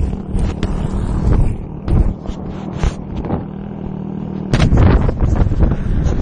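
Motorbike engine running with a steady low hum under heavy wind buffeting on the microphone. It gets louder about four and a half seconds in.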